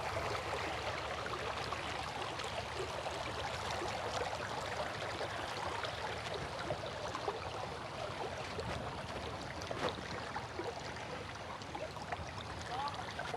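Steady babbling rush of flowing river water.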